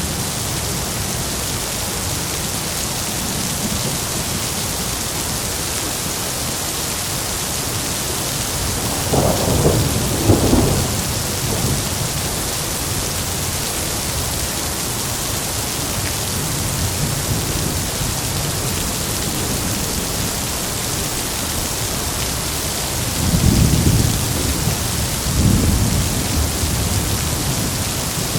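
Heavy steady rain with thunder rumbling twice, once about a third of the way in and again near the end, each roll lasting a few seconds.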